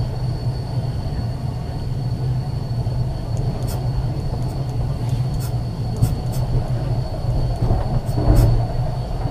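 Ex-Liverpool Corporation tram 869 running on its track: a steady low rumble with a few sharp clicks, and a louder knock about eight seconds in.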